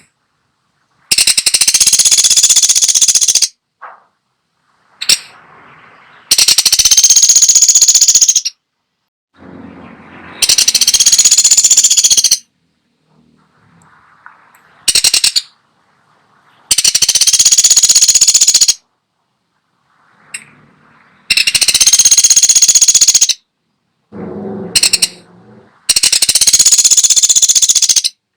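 A pelatuk sampit woodpecker calling: six long rapid rattling, high-pitched calls of about two seconds each, every four to five seconds, with three short single notes between them.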